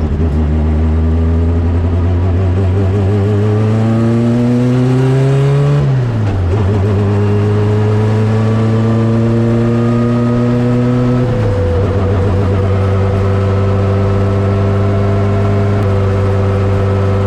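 Turbocharged Honda CRX engine running on E85, accelerating through the gears: the revs climb for about six seconds, fall at an upshift, climb again, fall at a second upshift about eleven seconds in, then hold nearly steady, rising slowly.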